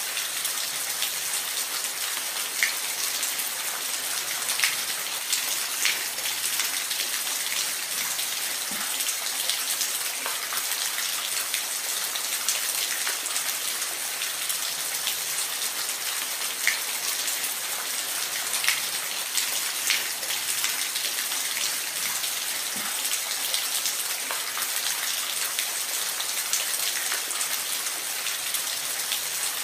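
Steady rain falling, an even hiss with scattered individual drops ticking over it.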